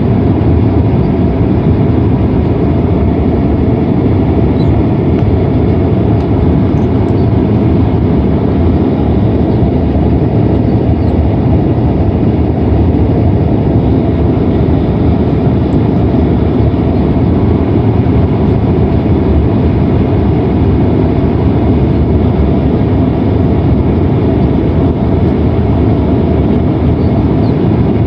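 Steady engine and airflow noise inside the cabin of a Boeing 767-300ER airliner. It is a loud, even rumble with faint steady tones and no sudden changes.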